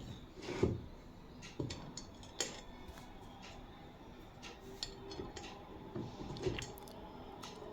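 Scattered light metallic clicks and clinks of fan parts and screws being handled during reassembly.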